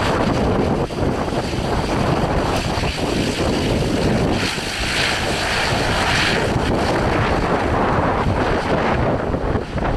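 Strong wind buffeting the microphone: a loud, steady rumble, with a brighter rushing hiss swelling from about two and a half seconds in to about six and a half.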